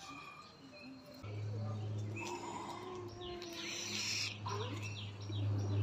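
Birds chirping, with a quick run of short downward-sliding chirps near the end, over a steady low hum that starts about a second in.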